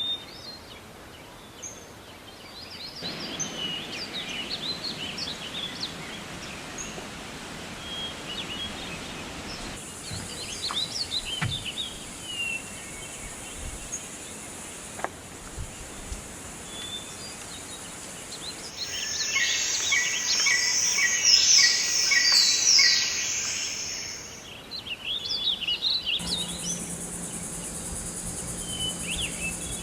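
Rainforest birds chirping and calling over a steady outdoor background, in several short clips joined with abrupt cuts. About two-thirds of the way through comes a louder stretch of rapid, repeated chirps.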